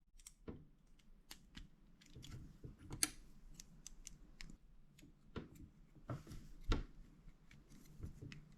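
Plastic building bricks being handled and snapped together: faint, irregular small clicks, with a couple of louder clicks about three seconds in and near seven seconds.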